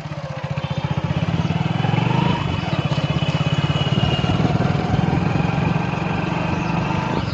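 Motorcycle engine running steadily, a fast even low pulsing, with faint thin high tones above it for a few seconds in the middle.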